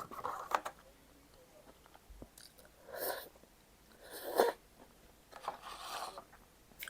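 Close-up eating sounds: short bursts of chewing and crunching on food, four or five of them a second or two apart, with small clicks.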